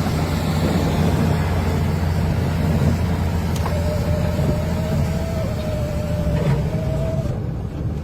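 A steady low engine rumble, with a faint steady whine coming in about halfway through and fading out near the end.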